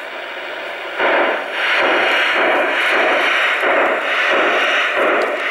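Garden-scale model steam locomotive chuffing steadily, a little under two chuffs a second, getting louder about a second in.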